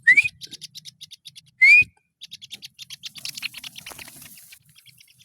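Two short, loud whistles, each rising in pitch, about a second and a half apart, used to call a tame kingfisher back, followed by a fast run of sharp high ticks, several a second.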